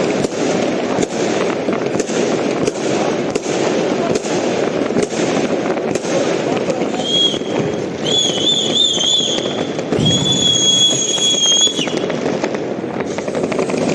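Fireworks and firecrackers crackling and popping in a dense, continuous barrage. About halfway through, high whistling tones join in for several seconds, one of them wavering, before cutting off near the end.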